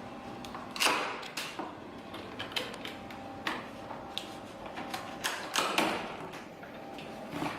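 Irregular knocks, clicks and rustles of packaging being handled as a packed wood-burning stove is unpacked, the loudest knock about a second in.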